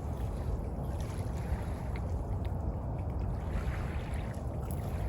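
Steady low rumble of surf on the beach, with a few faint ticks.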